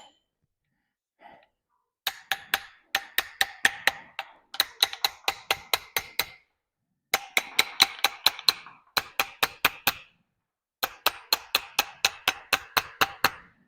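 Metal tool clicking in quick, even runs of about five or six sharp clicks a second, with short pauses between runs, during hand work on the strut assembly.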